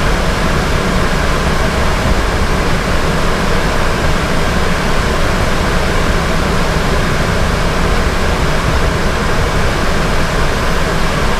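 Steady rumble and rushing noise of a fire engine's Detroit Series 60 diesel running, heard from inside the cab.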